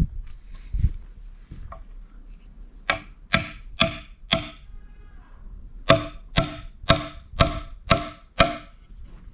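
Ten sharp hand-tool blows with a metallic ring, about two a second. They come in a run of four, a pause, then a run of six, as in splitting or chopping wood by hand.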